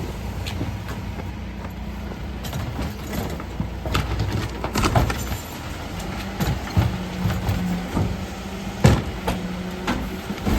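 Mercedes Econic refuse truck's diesel engine running steadily, with a held hum that drops out and returns. Several sharp knocks and clatters are scattered through it.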